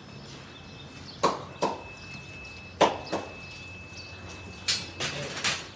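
A series of sharp knocks, about six, mostly in pairs a third of a second apart, over a faint steady high-pitched tone.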